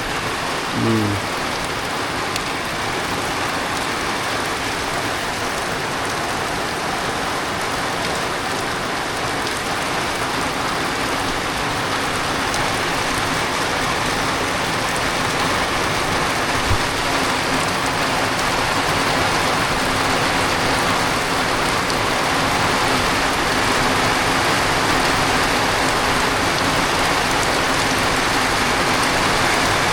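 Rain falling steadily, gradually getting a little louder.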